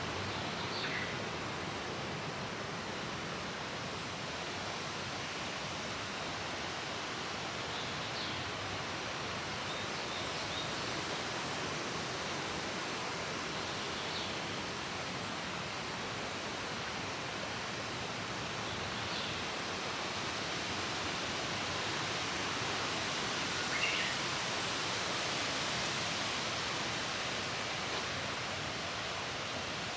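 Steady rush of flowing water, with short high calls of a Japanese bush warbler breaking through about half a dozen times, the clearest about 24 seconds in.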